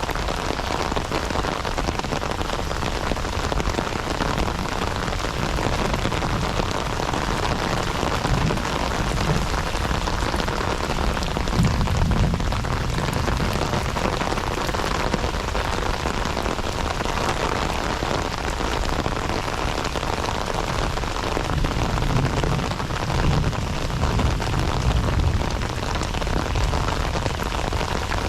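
Heavy rain falling steadily in a dense, even hiss, with a few low rumbling swells, the strongest about halfway through.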